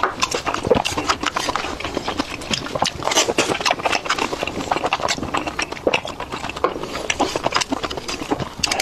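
Close-miked chewing of spicy sea snail meat: a dense, irregular run of wet clicks and smacks from the mouth.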